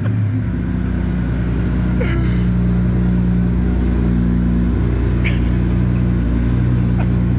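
Subaru EG33 flat-six engine in a big-turbo STI running at steady revs on a chassis dyno, a loud even drone that holds its pitch throughout.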